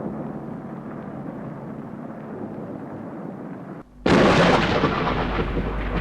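Thunder rumbling steadily, then about four seconds in a sudden loud thunderclap that slowly dies away.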